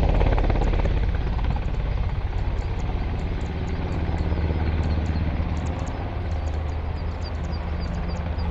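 Aircraft droning overhead with a steady low pulsing hum, loudest at the start and easing off slightly. Faint, evenly repeated high chirps join in about halfway through.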